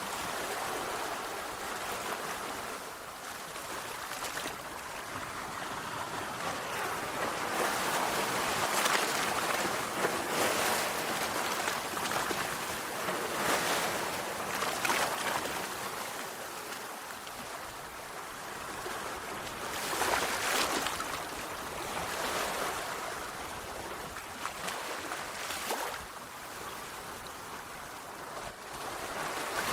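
Sea waves breaking and washing on a shore: a continuous rush of surf that swells every few seconds as each wave breaks.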